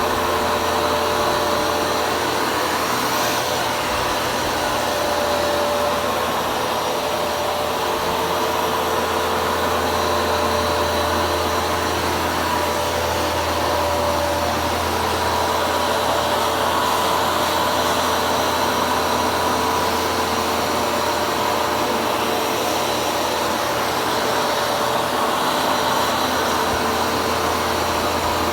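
Hoover carpet shampooer running steadily, its suction motor giving a constant whine over a rushing noise.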